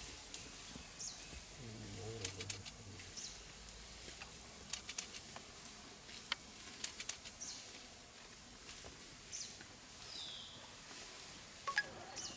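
Faint jungle ambience: birds calling with short high downward chirps every second or two, among scattered sharp clicks and snaps.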